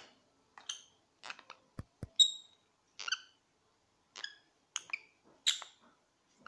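Pet parrots giving a string of short, high chirps and squawks with brief silences between them, with two sharp knocks about two seconds in.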